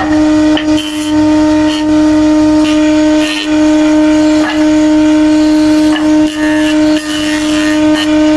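Electric woodworking machine's motor running with a steady, loud hum, with brief scraping and clicking from wood being worked against it.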